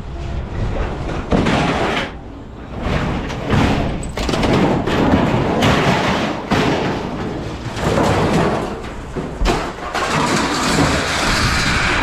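Scrap metal being thrown out of a pickup truck bed, with a run of irregular slams, thuds and knocks as pieces land.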